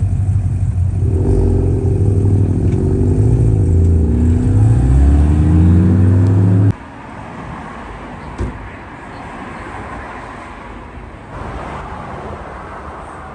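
A car engine runs loudly close by, its pitch wavering as it is lightly revved. It cuts off abruptly about two-thirds of the way through, leaving a much quieter outdoor background.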